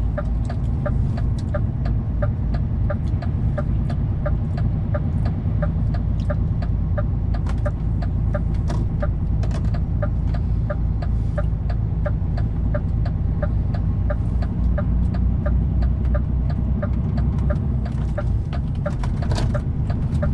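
Lorry cab interior with a steady low rumble of the truck's engine and road noise while driving. A short pitched tick repeats evenly, about two to three times a second.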